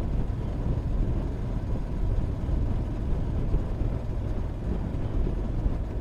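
Motorcycle on the move: steady low wind rush over the camera microphone mixed with engine and road noise.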